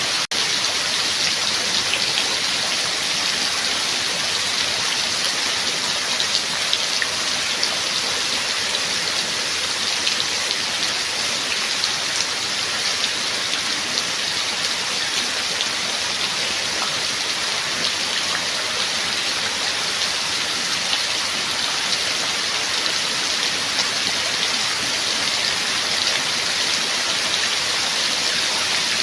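Steady rainfall: a dense, even hiss with the patter of individual drops.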